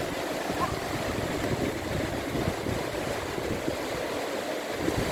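Sea surf washing steadily, mixed with wind rumbling on the microphone.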